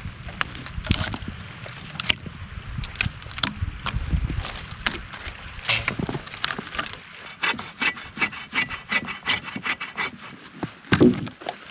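Wood being worked by hand: irregular knocks and clicks, then a run of quick, even rasping strokes like a hand saw going through a branch, and a heavier knock near the end.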